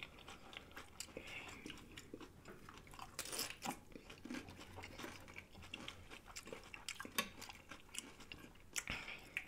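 Faint, close-miked chewing and crunching of nachos and tacos, made of irregular short crunches and mouth clicks. A few louder crunches come about three and a half, seven and nine seconds in.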